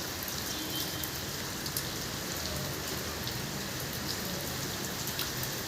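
Rain falling steadily: a dense, even hiss with scattered ticks of individual drops striking.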